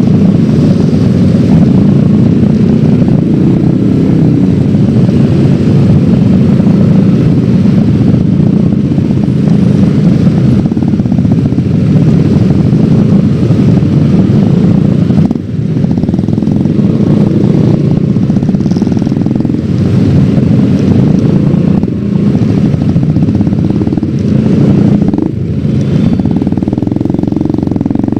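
Yamaha X-Ride 113cc scooter's single-cylinder engine running steadily under way, mixed with road noise. Its loudness dips briefly about halfway through and twice more near the end.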